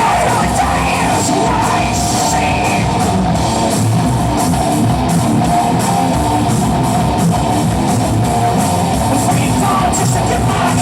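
Live heavy rock band playing loud, with distorted electric guitar, drums and shouted vocals.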